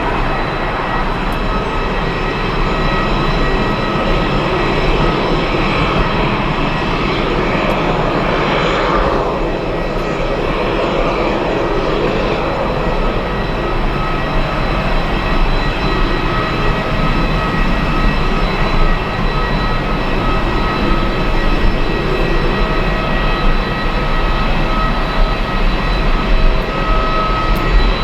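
Jet airliner engines running steadily, a broad rush with a steady whine on top. About nine seconds in, a pitch sweeps downward.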